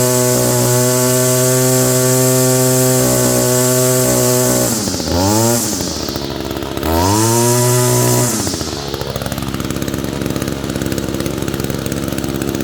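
Echo GT225 string trimmer's two-stroke engine held at full throttle, then let off, blipped briefly, and opened up to full speed again before dropping to idle about eight and a half seconds in. The engine is on its original spark plug and air filter after 11 years, and the owner judges it not quite reaching the speed and loudness it used to.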